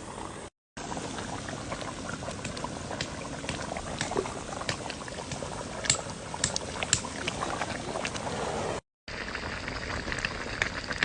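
Lamb and vegetable stew bubbling in a pot over a campfire, a steady simmering hiss with scattered sharp pops and crackles, several close together about six to seven seconds in.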